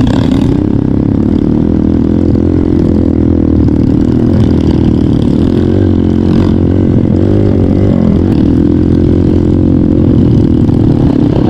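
Trail motorcycle engine running under way, its pitch rising and falling a little as the throttle changes.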